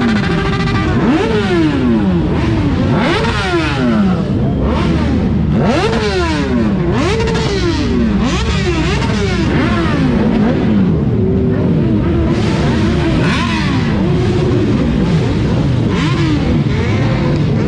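Motorcycle engines revving over and over, their pitch climbing and dropping in quick sweeps, with several revs overlapping one another.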